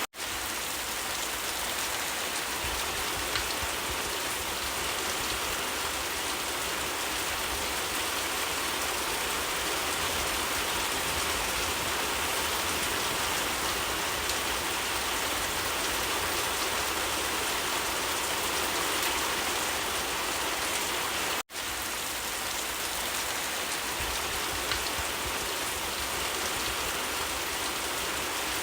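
Steady rain falling, an even hiss with scattered drop ticks. The sound cuts out for an instant right at the start and again about 21 seconds in.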